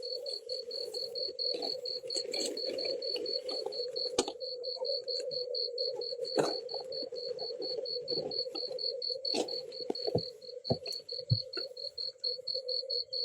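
Night insect chorus: a cricket calling in a fast, even pulse of high chirps over a steady lower drone, with scattered clicks and rustles.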